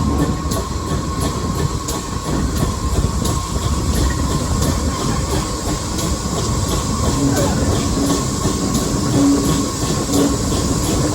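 Heritage railway train running along the track: a steady rumble of the wheels, with regular clicking as they pass over the rail joints.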